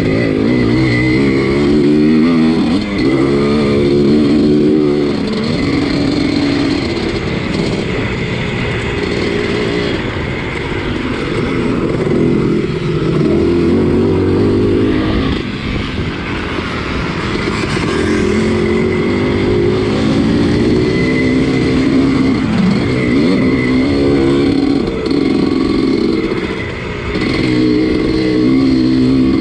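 1983 Husqvarna 250CR two-stroke motocross engine revving hard and backing off again and again while being raced, pitch climbing through each burst and falling between them.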